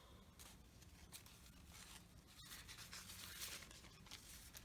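Near silence with faint dry rubbing and rustling as an inked rubber stamp is pressed and rubbed onto the canvas. The rubbing is a little stronger in the middle.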